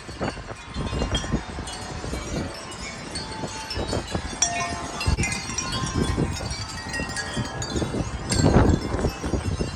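Metal wind chimes ringing and clanging irregularly in strong gusty wind, with wind buffeting the microphone; the heaviest gust comes about eight and a half seconds in.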